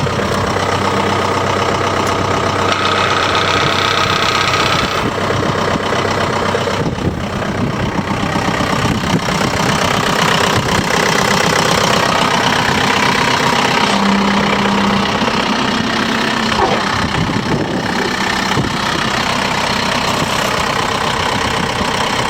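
John Deere 4720 compact tractor's diesel engine running steadily. A higher whine joins for about two seconds, roughly three seconds in.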